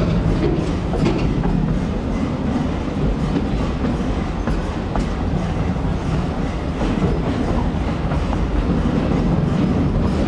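Passenger train rolling along the track: a steady rumble with occasional clicks of the wheels over the rails.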